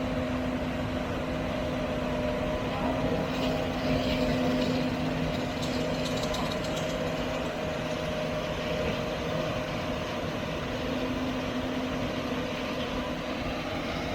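A farm machine's engine running steadily with a constant hum, and some light rattling about three to seven seconds in.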